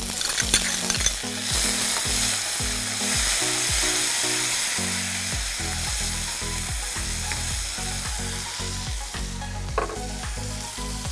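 Diced tomatoes frying in hot oil in a nonstick pan, sizzling steadily while a steel ladle stirs them through the spice tempering.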